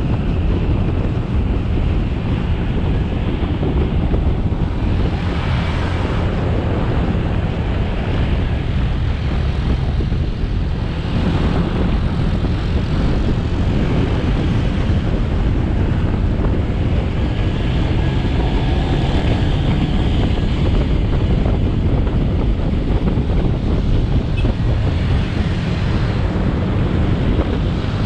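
Motorcycle engine running at riding speed, with road noise and wind buffeting the camera's microphone. The sound is steady and loud, heaviest in the low end, and the rushing noise swells a few times along the way.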